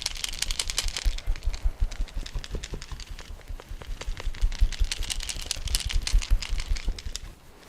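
Hands massaging bare skin, a fast run of slaps and clicks with dull thumps beneath, in two busy stretches, dying away near the end.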